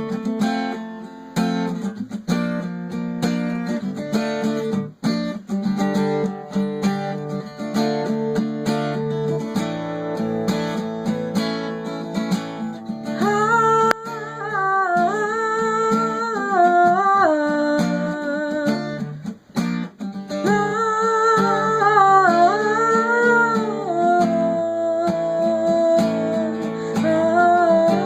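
Solo acoustic guitar playing a slow picked and strummed instrumental intro. About halfway through, a voice hums a wordless melody over the chords.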